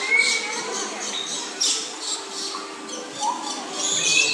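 Many captive birds in an aviary chirping and squawking, with short high calls coming thick and fast, a brief steady whistle at the start and another near the end.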